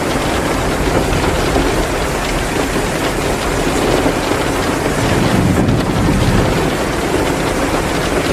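Heavy rain pouring down steadily, mixed with the crackle of a wood fire in a fireplace.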